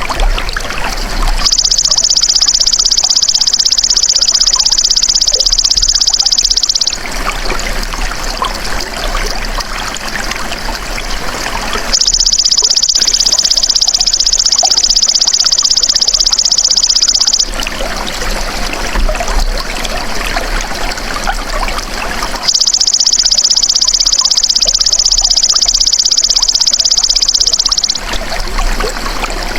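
Belalang emas (golden grasshopper) insect calling in three long, high, steady trills of about five and a half seconds each, over continuous trickling water that fills the gaps between calls.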